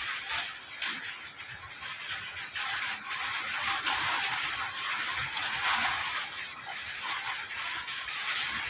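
Rain falling steadily: an even hiss of drops with scattered individual patters.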